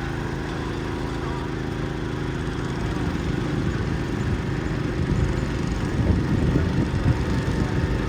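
Garden tractor engine running, steady at first, then louder and rougher from about three seconds in.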